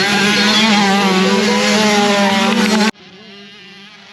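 Several dirt bike engines racing together, their pitches rising and falling as the riders work the throttles. About three seconds in the sound cuts off abruptly to a much quieter, steady engine drone.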